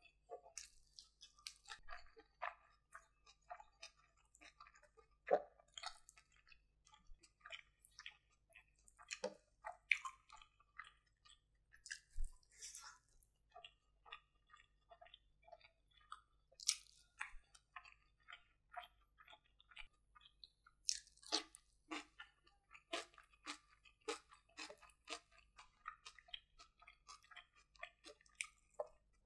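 Close-miked chewing of rice and curry eaten by hand: a steady run of soft, irregular wet mouth clicks and smacks, with a few sharper clicks now and then.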